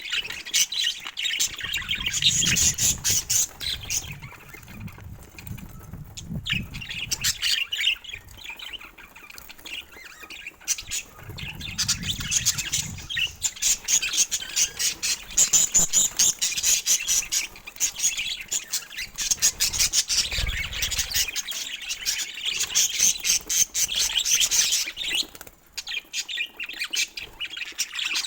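Budgerigars chattering and warbling continuously with rapid clicks and squawks, broken by a few low rumbling bumps.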